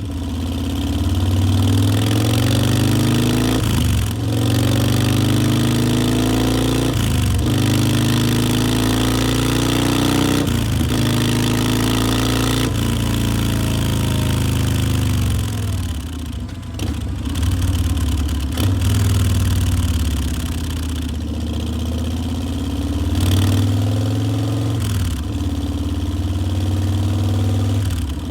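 Harley-Davidson Milwaukee-Eight V-twin of a 2018 Softail Breakout running through Vance & Hines Twin Slash mufflers. It climbs in revs several times, each climb dropping off suddenly, settles lower around the middle, then rises again near the end.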